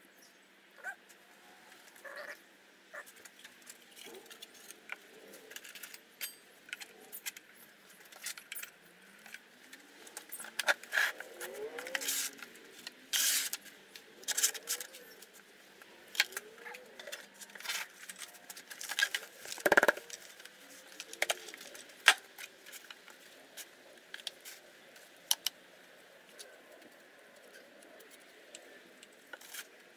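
Hand work on a foundry sand mould: irregular clicks, taps and scrapes of tools and flask in the sand, with one louder knock about twenty seconds in.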